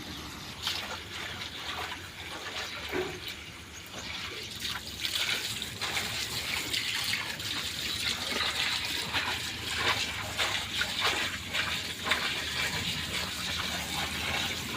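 Water splashing and sloshing as cassava peels are washed by hand, with many small irregular splashes that grow somewhat livelier after a few seconds.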